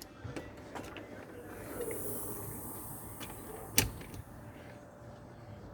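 A few light clicks and one sharp knock a little under four seconds in, over a faint hiss.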